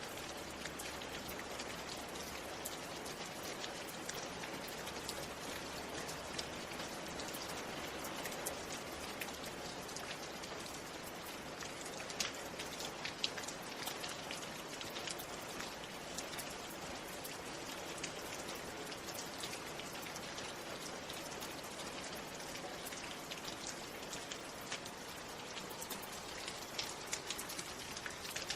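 Steady rain falling, an even hiss studded with many small sharp drop ticks, with a couple of louder drops about twelve and thirteen seconds in.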